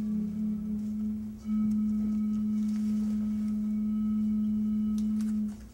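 A steady low pitched tone held for several seconds, with a second, lower tone under it at first. It breaks off briefly about a second and a half in, comes back louder, and stops suddenly near the end.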